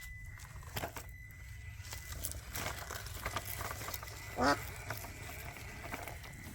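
Small electric motor of a Traxxas TRX4M crawler whining steadily as its tires click and crunch over rocks and dirt. About four and a half seconds in there is a short nasal, voice-like call.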